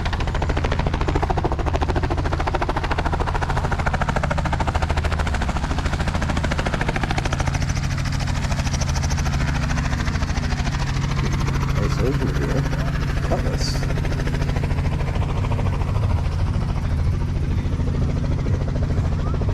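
Helicopter running steadily, a fast, even rotor pulse over a low engine drone.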